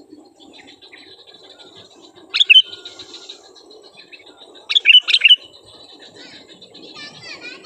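Sooty-headed bulbuls (kutilang) calling: sharp, loud call notes about two and a half seconds in and twice around five seconds, over fainter continuous twittering, with a wavering warble near the end.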